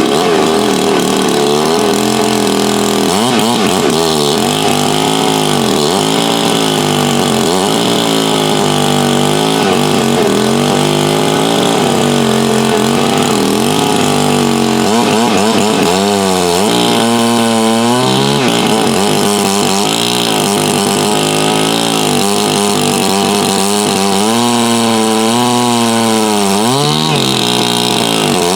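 Two-stroke engine of a Farmertec MS 660 clone chainsaw with a 36-inch bar and a lowered exhaust port, running hard. Its pitch repeatedly sags and climbs back, with deeper dips about halfway through and again near the end.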